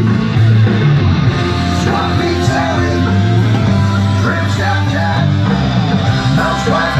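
Rock song with electric guitar, bass and a singing voice playing loudly over a boat's stereo speakers.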